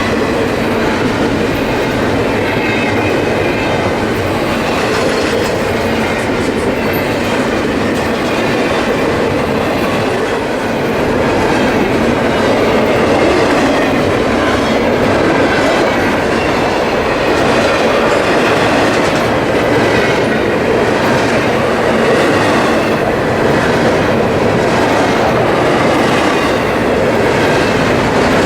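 Freight train cars rolling past, their steel wheels clicking over the rail joints in a steady rhythm, a little louder from about a third of the way in.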